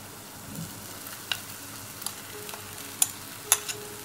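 Rice frying in hot oil in a nonstick pan as it is tipped in and stirred with a metal spoon: a steady sizzle, with a few sharp clicks of the spoon, the loudest about three and a half seconds in.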